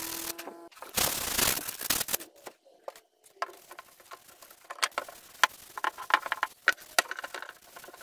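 Woodworking sounds: a burst of scraping noise lasting about a second, then a run of irregular light clicks and wooden knocks.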